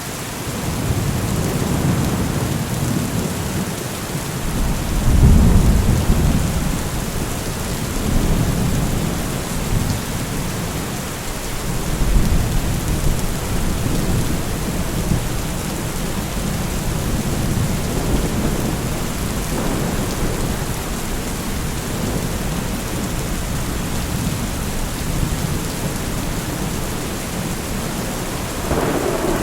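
Thunderstorm: steady rain hissing, with low rumbles of thunder swelling and fading several times, the loudest about five seconds in.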